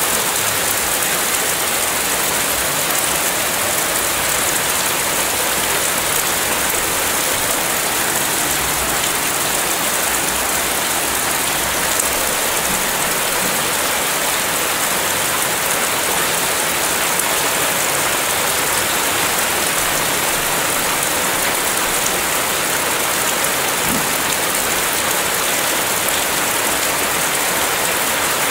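Steady rain falling, a dense, even hiss of many drops that holds the same level throughout.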